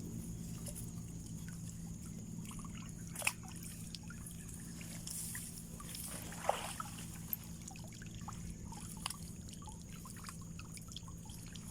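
Small water sounds, trickling and sloshing, with a sharp knock about three seconds in and a short splash about six and a half seconds in, over a steady low hum.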